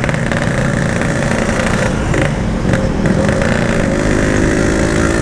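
Yamaha RX-King's two-stroke single-cylinder engine running steadily while being ridden. It is down on power and won't pull, which the rider puts down to a carburettor that needs tuning.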